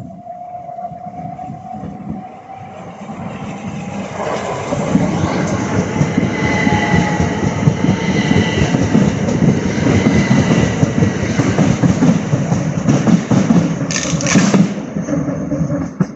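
Southeastern Class 375 Electrostar electric multiple unit running through the station, growing louder as it nears, then a steady rumble and clatter of wheels on the rails with a faint whine. Near the end comes a brief loud crackle, which the spotter calls a big spark from the third-rail pickup.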